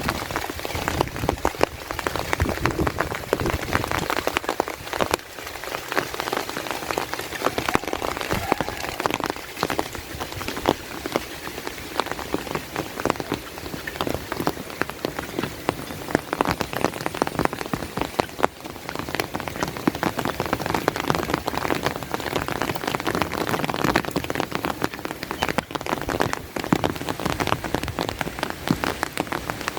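Steady heavy rain, a dense patter of individual drops striking close by.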